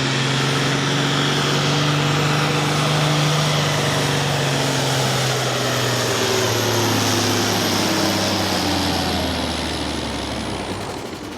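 A pulling tractor's engine running hard with a high whine over it. For the last few seconds the engine pitch and the whine drop together as it winds down and fades.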